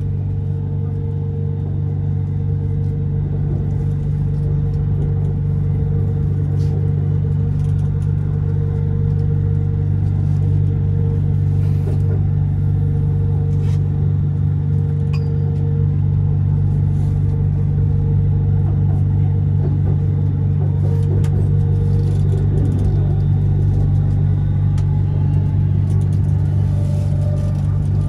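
Bangkok BTS Skytrain car running between stations, heard from inside: a steady low rumble, with a steady hum that fades out about three-quarters of the way through.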